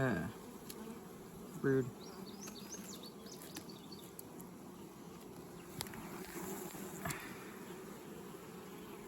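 Honeybees from an opened hive buzzing, a steady low hum that holds even throughout.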